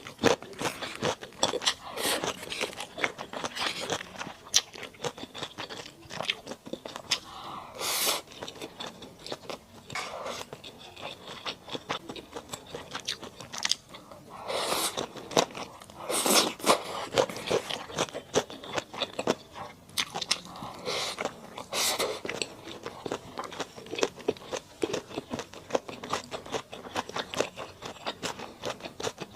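Close-miked chewing and crunching of mala-spiced duck: a dense run of moist, crackly chews with several louder crunchy bites along the way.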